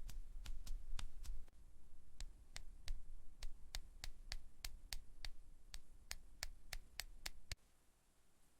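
Fingernails tapping on a makeup palette: light, quick taps at about three a second over a low hum, both stopping about seven and a half seconds in.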